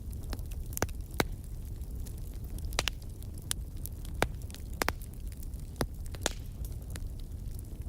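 Log fire crackling, with sharp irregular pops over a steady low rumble of the flames.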